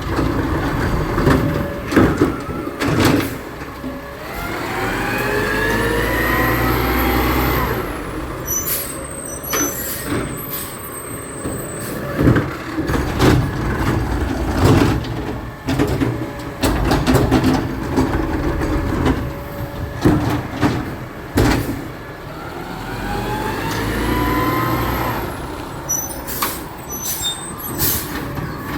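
Garbage truck at work: its engine revs up twice, about 19 seconds apart, in a rising whine, with bursts of clicks and knocks after each rise and scattered knocks in between.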